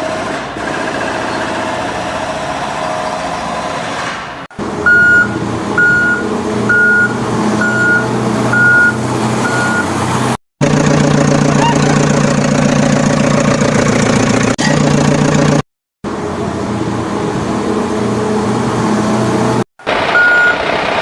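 Heavy truck engine sound effects running steadily in several stretches broken by abrupt cuts. A reversing beeper sounds six times, about once a second, in the middle, and starts again near the end.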